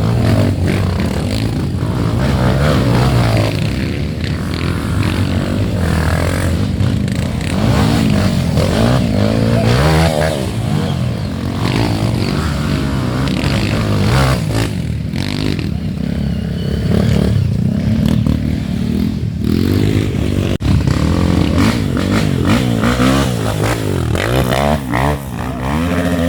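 Dirt bike engines revving: the engine pitch climbs and drops again and again as the throttle is opened and closed.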